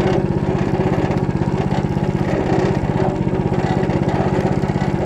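Engine of a Motor Sich rotary tiller running steadily with an even, rapid beat while the tiller works through stubble.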